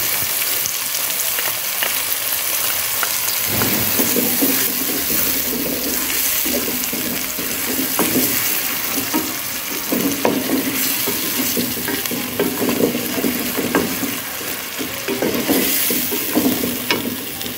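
Onions and chopped tomatoes sizzling in hot oil in a metal pot, with a steady hiss. From about three and a half seconds in, a spatula stirs and scrapes against the pot in irregular strokes.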